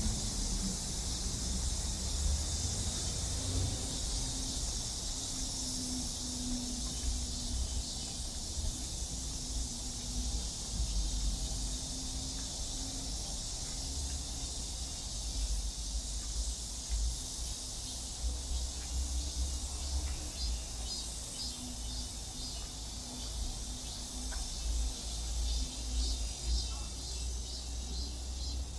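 Steady, high-pitched drone of summer cicadas, with a low rumble underneath.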